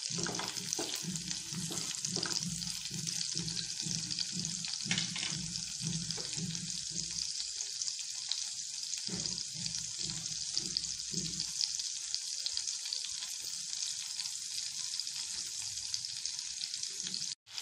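Chopped green chillies frying in melted butter in a nonstick kadai, a steady sizzling hiss, with a wooden spatula stirring them at the start. The sound cuts out for a moment just before the end.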